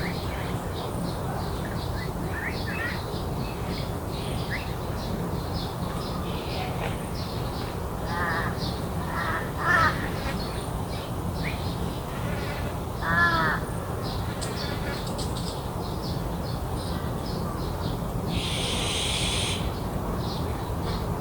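Garden bird chorus: small birds chirping constantly, with a crow cawing a few times about a third of the way in and again a little later, and a short buzzy burst near the end. A steady low hum runs underneath.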